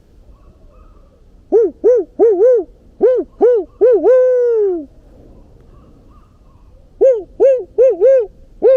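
Barred owl hooting its "who cooks for you, who cooks for you-all" song: a run of quick hoots ending in a long, falling final note, then a second run starting near the end.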